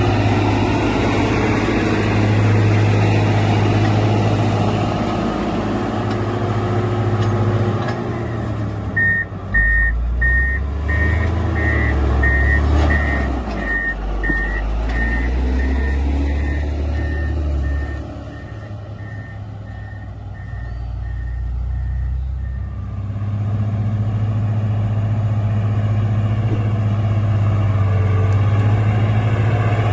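Road grader's diesel engine running steadily. About nine seconds in, its reverse alarm starts beeping at an even pace for some thirteen seconds while the engine note drops lower. The engine then comes back up to its earlier pitch.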